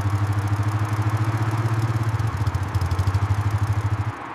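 Royal Enfield single-cylinder motorcycle engine running at a steady idle with an even, quick thumping beat, cut off abruptly near the end.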